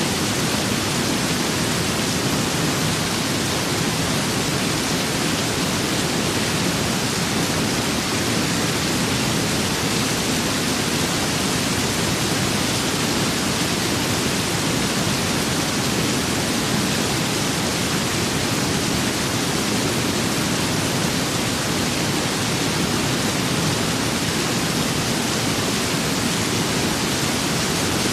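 Steady rain with wind, an even, unchanging hiss with no separate drops, gusts or thunder standing out.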